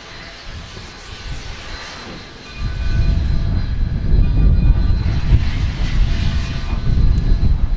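Narrow-gauge steam locomotive pulling out with its train, a heavy low rumble that gets much louder about two and a half seconds in.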